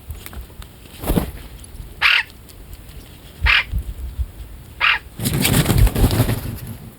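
Birds feeding on scattered biscuits: three short, harsh calls about a second and a half apart, then a louder noisy flurry of about a second and a half, as of wings flapping.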